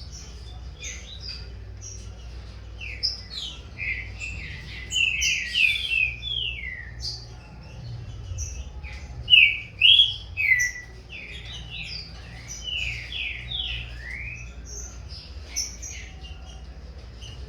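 Green-winged saltators (trinca-ferro) countersinging, a young bird starting to compete in song with its father. Phrases of loud, sloping whistled notes come in bursts, loudest about ten seconds in, over a steady scatter of higher, thinner notes.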